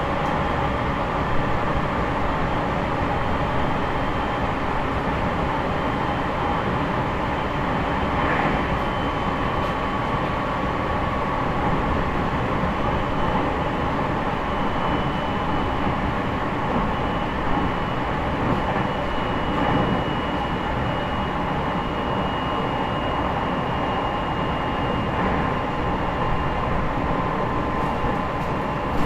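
JR East E501 series electric train running, heard inside motor car MoHa E501-8 with its Toshiba IGBT inverter drive: a steady rumble of wheels on rail. A faint whine drifts slowly lower, and there are a couple of brief clicks.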